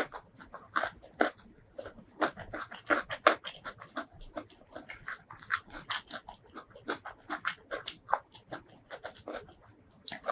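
Close-miked eating sounds: wet chewing and lip smacking of rice and curry eaten by hand, a quick, uneven run of short, sharp smacks and clicks.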